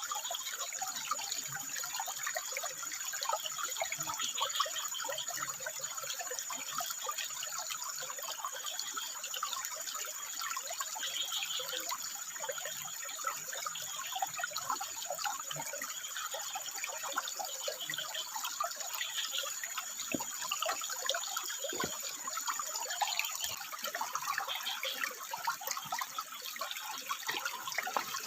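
Water trickling and splashing over rocks in a steady stream, with a thin, high, steady whine that stops about three-quarters of the way through.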